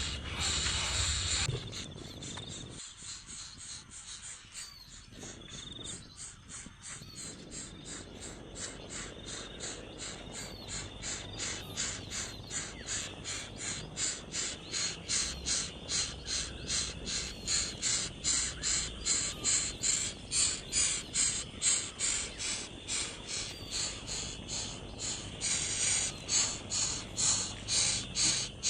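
Baby bird giving short raspy calls over and over, about two a second, growing louder toward the end.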